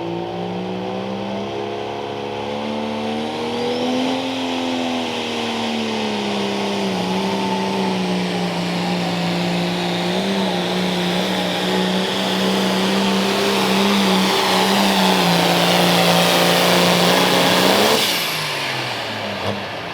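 Light limited super stock pulling tractor's engine at full throttle under load through a pull. Its pitch climbs about four seconds in, eases back and then holds high and steady; near the end the throttle closes and the pitch drops away quickly.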